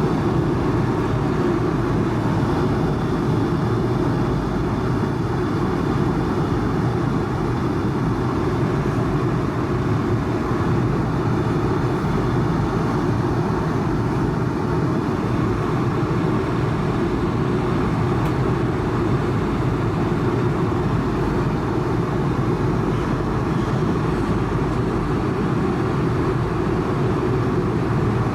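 Steady cabin noise of an Airbus A220-300 in flight: the low, even rush of airflow and its Pratt & Whitney geared turbofan engines, heard from a passenger seat.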